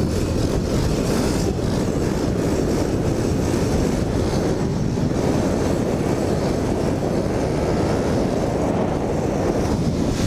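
Pit bike running along the road, heard through a steady wind rumble on a helmet-mounted camera microphone.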